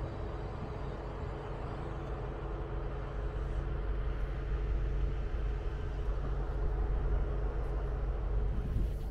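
Railway locomotive running steadily: a low rumble with a steady hum that holds its pitch throughout.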